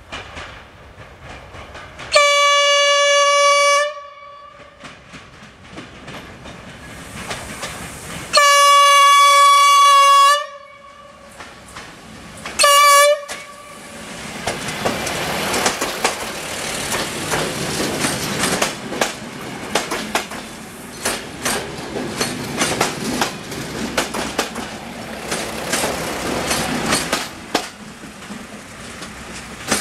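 TFG Class 614 diesel multiple unit sounding its single-note horn three times, two long blasts and then a short one, as it approaches. It then runs past with the rhythmic clickety-clack of its wheels over the rail joints, which eases off near the end.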